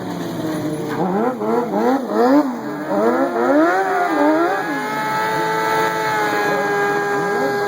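Stunt vehicle engine revved hard up and down in quick blips, then held steady at high revs from about halfway through.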